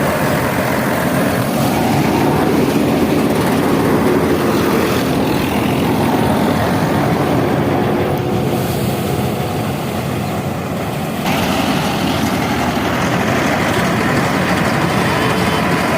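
Tractor engine and the tractor-driven mini combine harvester running with a steady, loud mechanical noise. The noise eases a little, then jumps back up suddenly about eleven seconds in.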